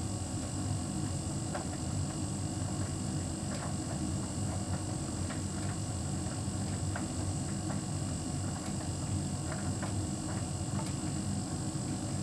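Hotpoint heat pump tumble dryer running: a steady low hum with the drum turning, and scattered light clicks and taps through it.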